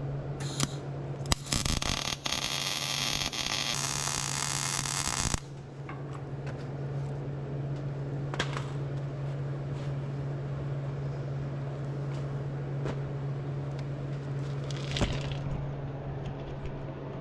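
MIG welder arc crackling for about four seconds, then stopping, over a steady low hum, with a few scattered clicks afterwards.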